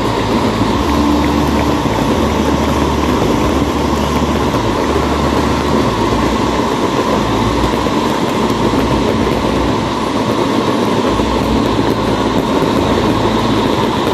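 Continuous loud rushing roar of stadium fireworks, fountains and comets shooting up, with no single bangs standing out.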